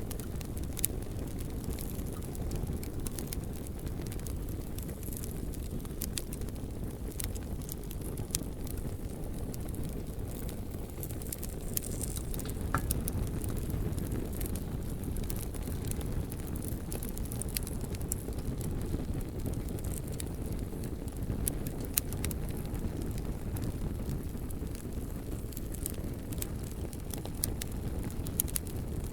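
Campfire wood burning, crackling with frequent small sharp pops at irregular intervals, a few louder ones, over a steady low rumble.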